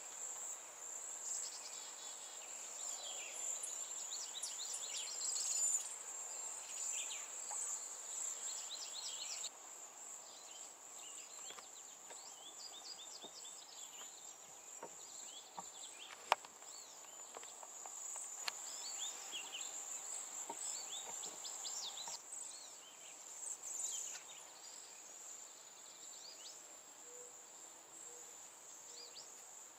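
Wild songbirds chirping and trilling over a steady high-pitched insect drone. One sharp click comes about halfway through.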